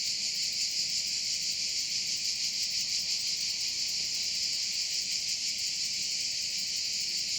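A steady, high-pitched insect chorus with a fast, even pulse that holds unchanged throughout.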